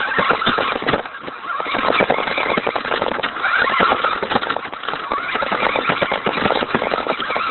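Radio-controlled Hummer truck driving over rough ground: its motor whines and varies with speed, over a dense crackle from the tyres.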